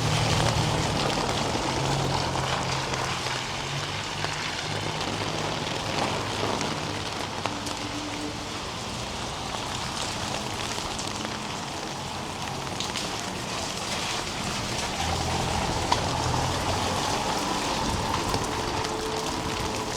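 Steady rain falling, a continuous hiss with scattered drop ticks. A low hum runs under it for the first few seconds and again for a couple of seconds about three-quarters of the way through.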